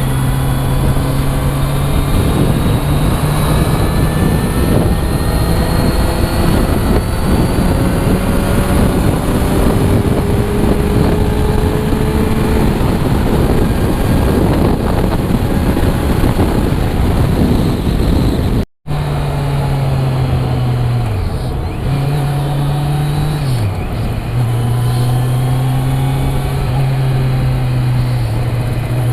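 Motorcycle engine running at steady highway speed under heavy wind and road noise, with other vehicles passing. The engine note twice drops briefly and picks back up a little past two-thirds through, and the sound cuts out for a moment just before.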